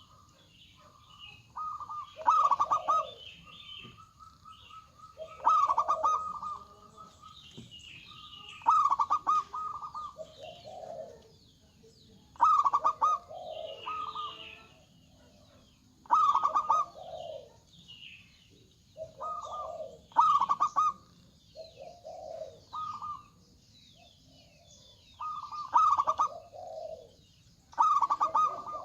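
Zebra doves (perkutut) cooing: short bursts of rapid staccato coo notes repeated every few seconds, with fainter high chirps between the phrases.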